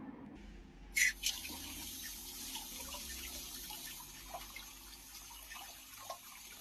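Water running steadily from a tap, starting with a sharp click about a second in, as a washing machine's clogged water-inlet filter is rinsed clean.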